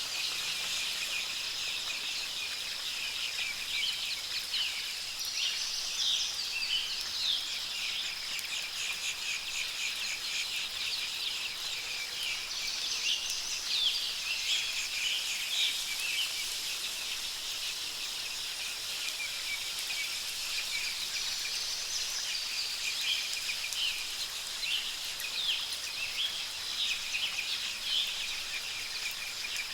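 Wild birds chirping and calling in flurries that come back every several seconds, over a steady high-pitched insect drone.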